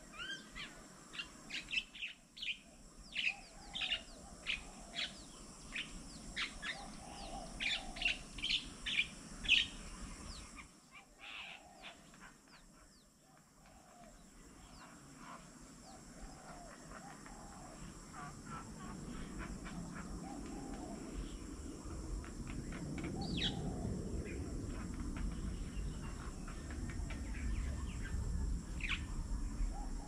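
Wild birds chirping: a dense run of short, sharp chirps for the first ten seconds or so, sparser afterwards, with a lower call repeating underneath. A low rumble builds through the second half.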